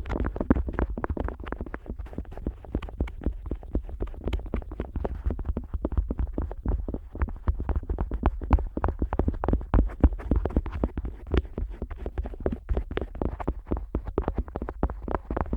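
An otoscope rubbing, scraping and pressing on the rubber outer ear of a Neumann KU100 dummy-head microphone, heard from inside that ear. It makes dense, rapid scratchy crackling, many clicks a second, over a constant low handling rumble.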